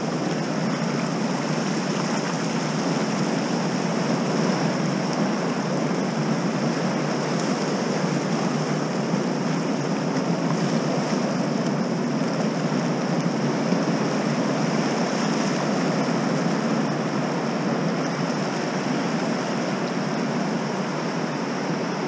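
Steady rushing noise of ocean surf breaking on the beach, mixed with wind, at an even level throughout.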